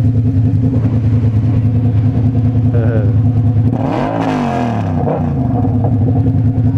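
Motorcycle engine running steadily, its pitch rising and falling briefly about four seconds in.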